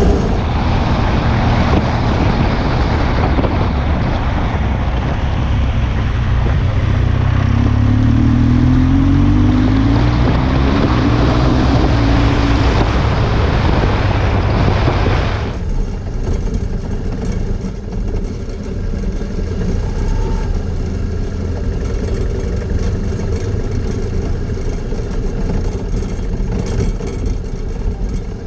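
Motorcycle being ridden on a dirt track: a loud rush of wind and riding noise over the engine, with the engine note rising as it speeds up about eight to twelve seconds in. About halfway through the rush cuts off suddenly, leaving a quieter, steadier engine sound.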